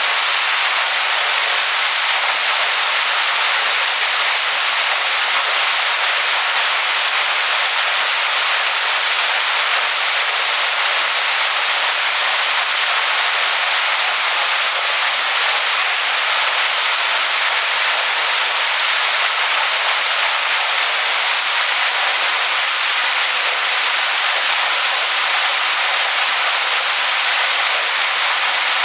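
Waterfall rushing over rocks: a steady, loud hiss of falling water, mostly high and with very little low rumble.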